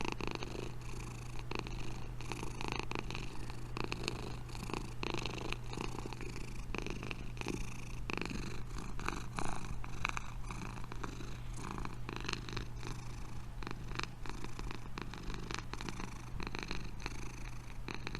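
Domestic cat purring, a steady low rumble.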